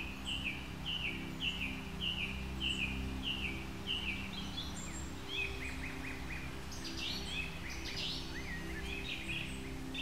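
Birdsong: a bird repeats a short falling note about twice a second, then breaks into a quicker, more varied twittering song in the second half, over a low steady hum.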